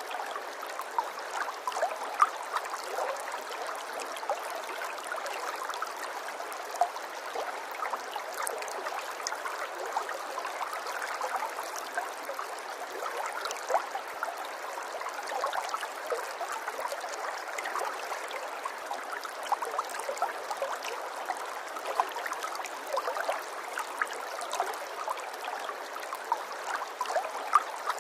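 Running water trickling and gurgling steadily, with many small plops and splashes scattered through it.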